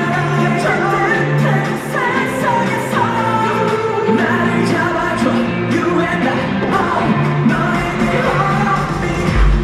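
Live K-pop song performance: a male voice singing over a pop backing track with a sustained bass line, with a deep pulsing bass beat kicking in at the very end.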